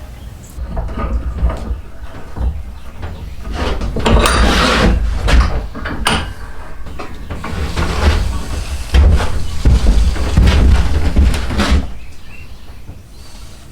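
Wood being worked with hand tools: irregular knocks and scraping, with a longer rasping stretch about four seconds in.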